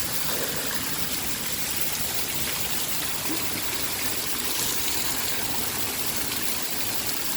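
Heavy pouring rain coming down hard, a dense steady hiss.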